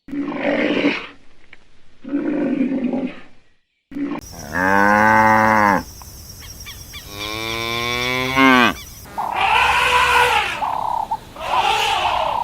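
A string of farm animal calls: a couple of short rough calls, then a cow mooing twice in long drawn-out moos, then bleating near the end.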